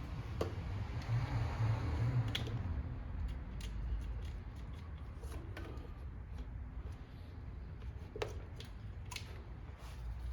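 Scattered small clicks and light scraping from hands working a headlight bulb into its socket, over a low rumble. The sharpest click comes about eight seconds in.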